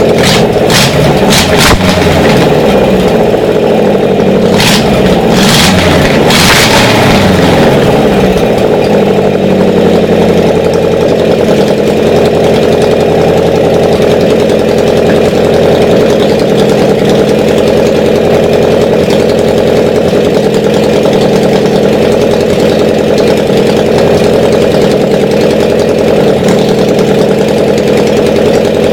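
Air-cooled V4 engine from a ZAZ-968, running in a motorcycle build, revved in a few quick blips during the first seven seconds or so, then settling to a steady idle.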